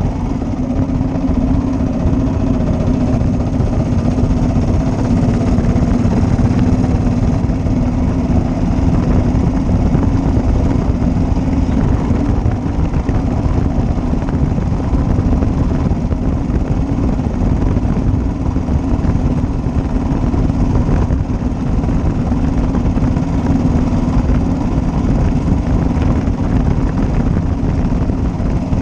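1941 Matchless G3L's 350 cc single-cylinder engine running steadily while the motorcycle is ridden along at a constant pace.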